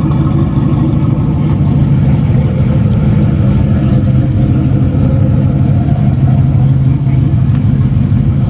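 Car engine running at a steady speed, a loud, even low hum that holds without rising or falling.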